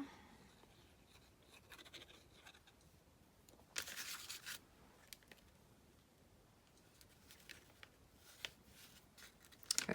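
Quiet handling of paper craft pieces on a desk: one brief scratchy rustle of paper about four seconds in, then a few small faint taps and clicks.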